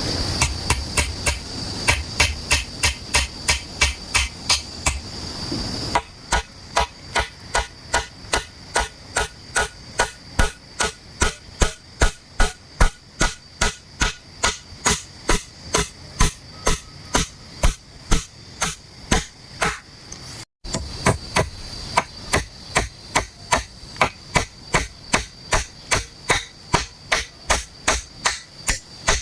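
Steady rhythmic blows of a hand tool on bamboo or wood, about two to three strikes a second, like hammering or chopping during shelter building. A steady high insect drone runs under the strikes at the start and again near the end.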